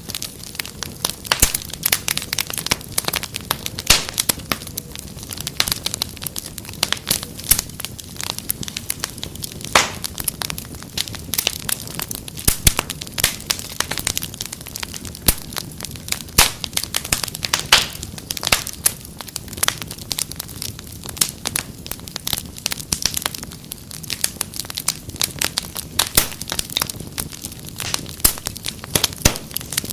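Wood fire crackling in a fireplace: dense, irregular sharp pops and snaps over a low steady hiss of the flames.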